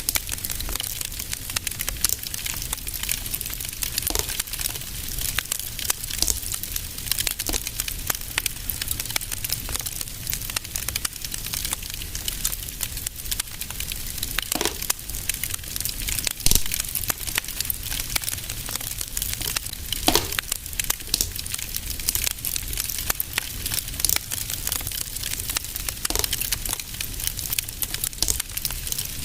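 Fireplace fire crackling steadily: a dense stream of small snaps and hiss, with a handful of louder pops scattered through, over a low rumble.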